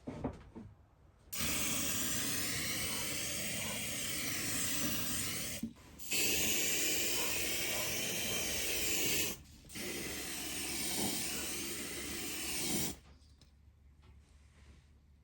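Makita CL003G cordless stick vacuum running with a steady rushing hiss and a wavering high motor whine, in three stretches of about three to four seconds each, broken by two short abrupt gaps.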